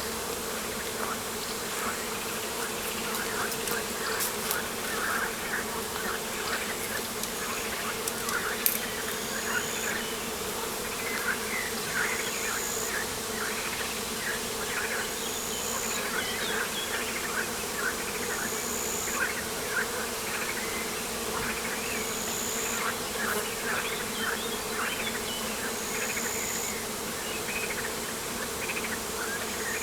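Steady buzzing hum of flying insects, with many short high chirps scattered over it and a faint, thin high tone repeating about every three seconds.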